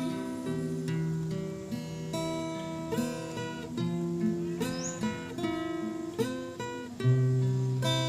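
Background acoustic guitar music: plucked and strummed notes, with one note sliding up in pitch about five seconds in.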